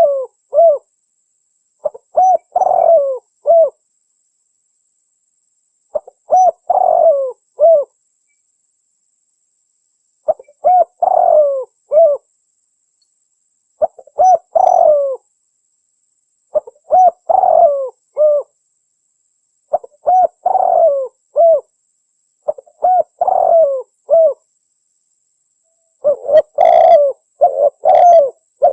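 Spotted dove (tekukur) cooing: a phrase of several rising-and-falling coo notes repeated about every three seconds, the phrases coming close together near the end. It is a lure call recording meant to draw in wild doves.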